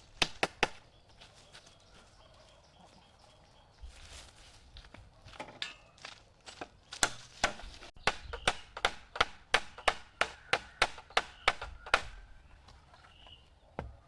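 A hammer driving nails into a trellis frame: a few quick blows at the start, then after a pause a steady run of blows at about three a second that stops shortly before the end.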